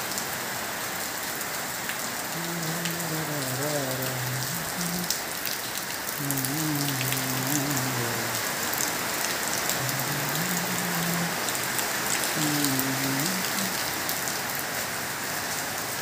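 Steady heavy rain: a continuous hiss made of many small drop impacts. A low voice is heard faintly a few times in between.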